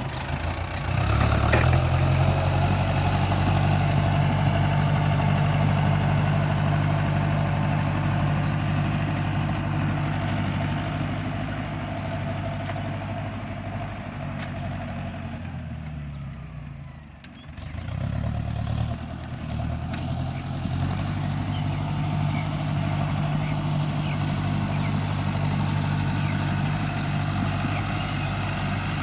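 Kubota M6040 tractor's diesel engine running steadily, picking up revs about a second in. Just past halfway it drops away briefly, then climbs back and runs on steadily.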